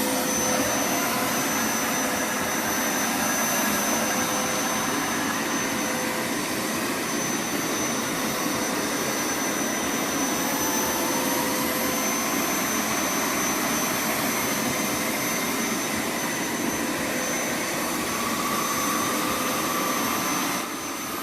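Hoover Power Scrub Deluxe FH50150 carpet washer running: a steady whine over an even rush of air from its motor.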